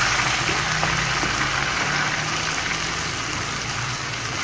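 Onions, tomatoes and green chillies sizzling steadily in hot oil in a frying pan as a wooden spoon stirs them, over a steady low hum.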